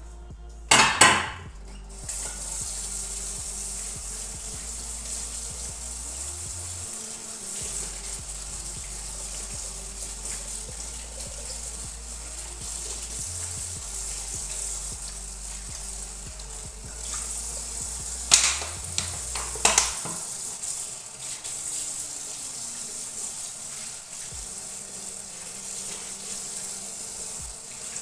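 Kitchen work: a steady high hiss with loud clatters of dishes or pans about a second in and twice more around two-thirds through, over quiet background music.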